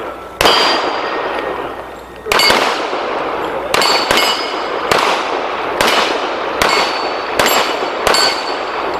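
Rapid pistol shots at steel targets, about nine, irregularly spaced from under half a second to two seconds apart. Each is followed by the ringing clang of a struck steel plate.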